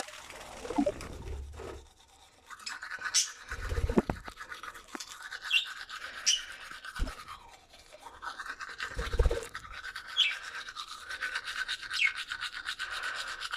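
A bird's short high chirps, a few seconds apart, over a steady rapid buzzing, with a few low thumps.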